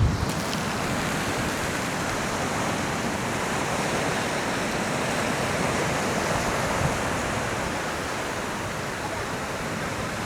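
Ocean surf washing against the rocks, a steady rushing noise.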